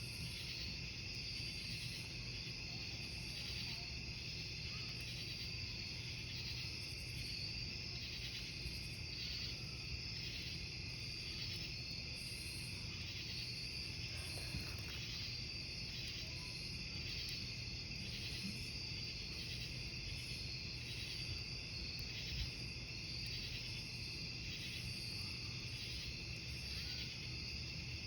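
Crickets chirping in a steady, evenly pulsing chorus, over the low hiss of a burning wood campfire with an occasional small crackle.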